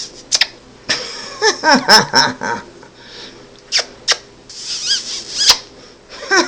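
Quaker parrot giggling: bouts of baby-like laughing chuckles and high squeaks, with a few sharp clicks between them.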